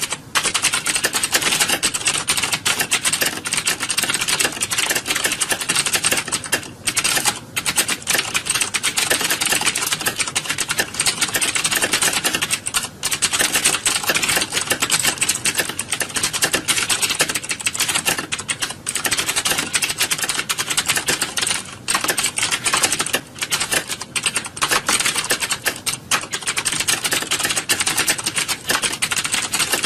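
Many computer keyboards being typed on at once, a dense, continuous clatter of key clicks with a few brief lulls.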